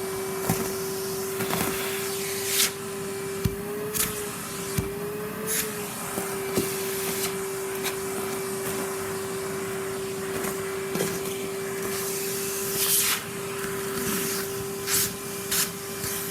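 Henry cylinder vacuum cleaner running with a steady motor whine while wood shavings and debris click and rattle up the hose. The motor's pitch wavers briefly about four seconds in, and the shavings are large enough to be a struggle for it.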